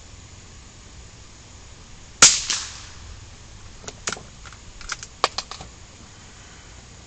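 A single gunshot about two seconds in, with a second, weaker crack a fraction of a second after it, then a string of quieter, sharp clicks over the next few seconds.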